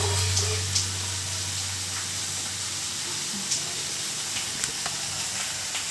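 Potato and aubergine sabzi sizzling as it fries in a pan, a steady hiss with a few light clicks. A low hum runs under it for the first couple of seconds.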